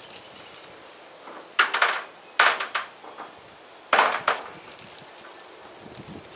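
Three quick clusters of sharp knocks and clatter, each a few hits in a row, about a second in, near the middle and at about four seconds.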